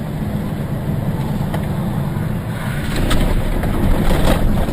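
Vehicle driving noise as picked up by a dashcam: a steady low rumble of engine and road, with a few sharp knocks about three to four and a half seconds in.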